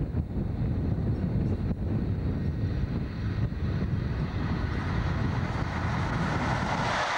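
A locomotive-hauled express train approaching at speed on the main line, its noise building over the last couple of seconds as the locomotive rushes past close by. Wind rumbles on the camcorder microphone throughout.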